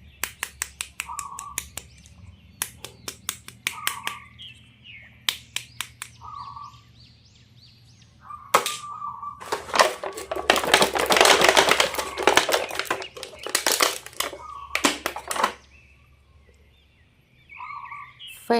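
Plastic toy packaging being handled and opened: scattered sharp clicks and taps and a few short chirp-like squeaks, with a dense crinkling rustle from about ten to fourteen seconds in.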